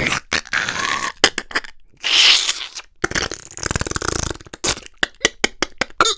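A man's voice imitating a werewolf transforming: raspy, breathy growls and snarls, then a quick run of sharp clicks and crunches near the end.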